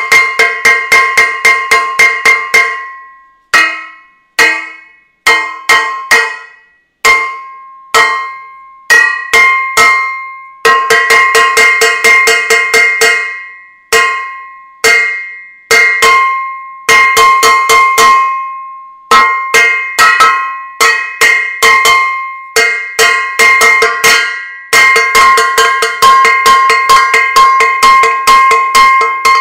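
A metal saucepan beaten over and over, casserolade-style pot-banging: ringing metallic clangs in fast runs of about four to five strikes a second, alternating with slower single strikes left to ring out.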